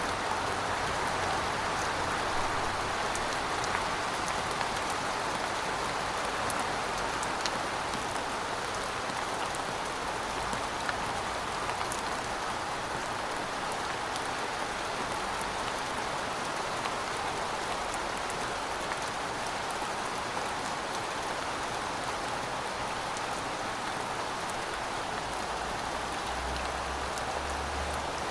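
Heavy rain falling steadily as an even hiss, with scattered individual drops ticking through it.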